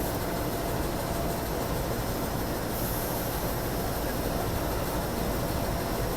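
JR East 205 series electric commuter train making a steady rail rumble and hiss.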